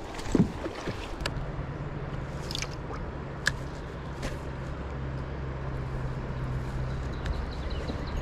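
A steady low motor hum starts about a second in and holds, with a loud knock just before it and a few sharp clicks.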